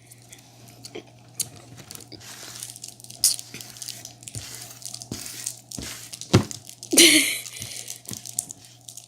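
Handling of a plastic novelty candy toy and its wrapper: scattered small plastic clicks and crinkles, with a sharper click about six seconds in and a brief louder rustle just after, over a faint steady low hum.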